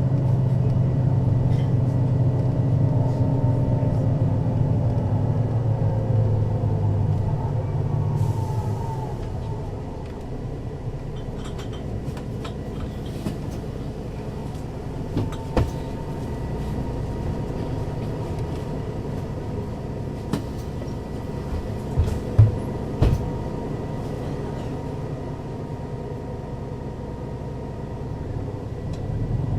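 Mercedes-Benz O 530 Citaro city bus heard from on board: the engine note falls and dies away over the first several seconds as the bus slows. It then runs low and quiet, with a few knocks and thumps around the middle, and the engine picks up again at the very end.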